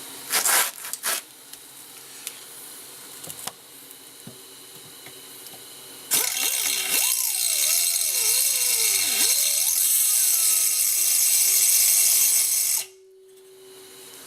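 A power grinder, most likely an angle grinder, grinding down a fresh weld on a steel ATV swing arm for about seven seconds. Its pitch wavers as it is pressed into the work, and it stops abruptly. A few short knocks come near the start.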